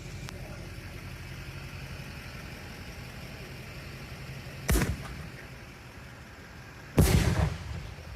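Two booms from a canister firework shell about two seconds apart, a sharp thump about halfway in, then a louder bang with a rolling tail near the end, over a steady low hum.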